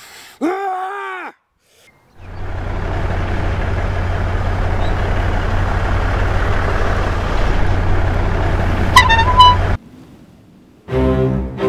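A man's brief yell, rising then falling in pitch, then a car engine running steadily. Near the end the car horn gives two short toots and the sound cuts off abruptly.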